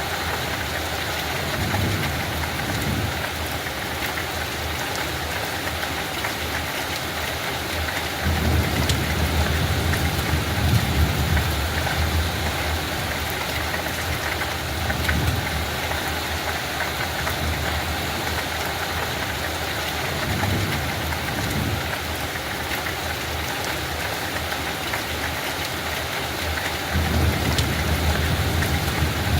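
Steady light rain falling, an even hiss. Low rumbles swell up now and then, strongest about eight seconds in and again near the end.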